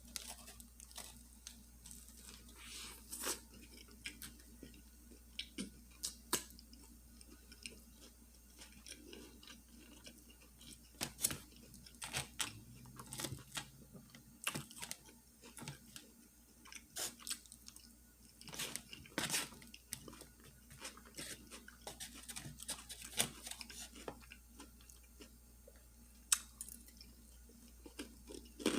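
Close-up chewing and crunching of a fish sandwich with lettuce and onion, in irregular crackles and wet bites.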